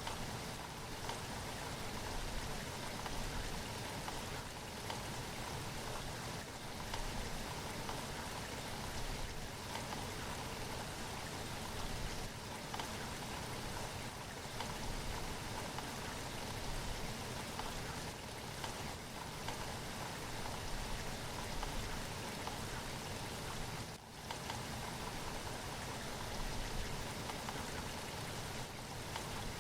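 Steady rain falling, an even unbroken hiss of drops, with a momentary dip in level about four fifths of the way through.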